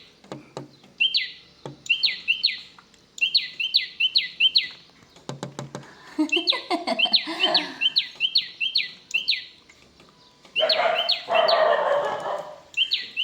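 Small birds chirping in quick runs of three to six short, sharp notes with brief pauses between runs. A few clicks fall around the middle, and a louder, rougher sound joins the chirps near the end.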